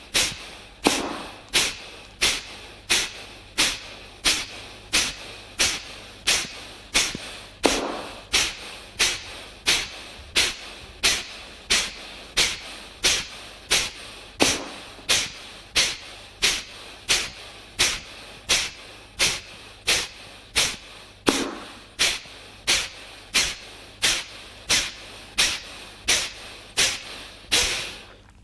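Kapalabhati breathing: rapid, forceful exhalations through the nose, about one and a half sharp puffs a second in a steady rhythm. About every seven seconds a deeper stroke marks the end of each set of ten.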